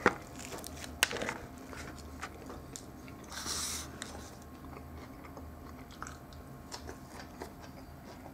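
A person biting into and chewing jalapeño pepper slices close to the microphone, with sharp clicks at the start and about a second in and a brief noisy burst around three and a half seconds in.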